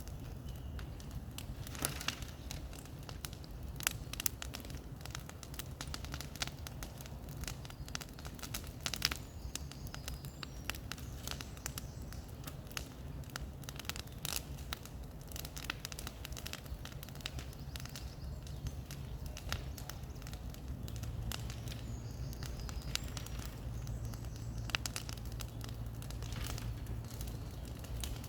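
Bonfire crackling, with irregular sharp pops and snaps over a steady low rumble.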